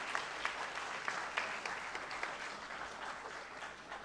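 An audience applauding: many hands clapping together, the clapping slowly thinning out toward the end.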